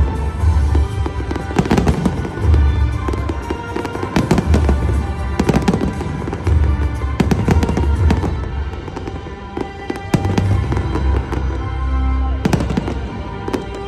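Aerial firework shells bursting and crackling in quick succession throughout, over loud music with a heavy bass.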